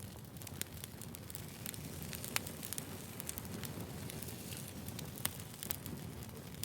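Wood fire burning: a steady low rumble with frequent sharp crackles and pops from the burning logs, one pop louder about two and a half seconds in.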